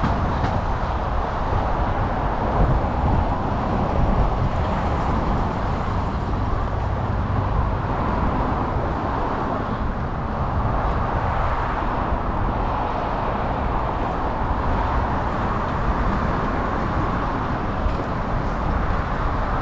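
Steady rushing noise while cycling through city streets: wind buffeting the microphone, mixed with passing road traffic.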